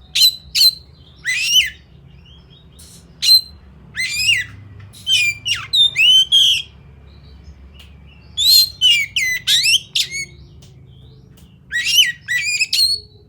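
Oriental magpie-robin (kacer) singing in loud clusters of sharp, fast-sweeping whistled notes, with pauses of a second or so between phrases, in the combative style that hobbyists call a 'fighter' kacer.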